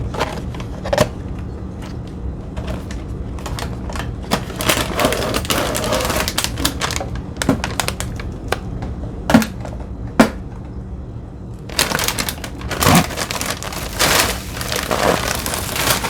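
Cookies being poured and dropped into a container: scattered light clicks and clattering, thickening into denser runs midway and again near the end, with a few sharper knocks.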